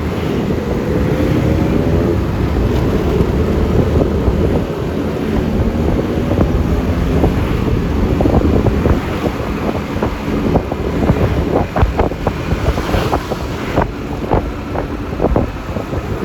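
Wind buffeting the microphone over the road noise and engine of a Yamaha Lexi LX 155 scooter under way, its engine note rising as it speeds up a second or two in. Several short knocks come in the second half.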